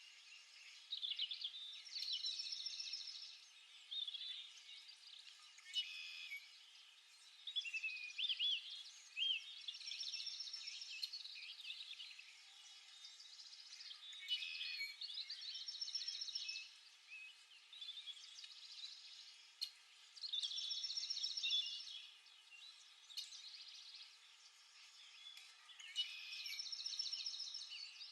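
Songbirds singing and chirping. One short song phrase ending in a rapid trill comes back five times, about every five to six seconds, with quicker chirps in between.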